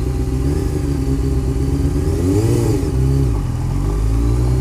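Honda CBR motorcycle engine pulling away under acceleration. Its pitch climbs, drops at gear changes past the middle, then climbs again.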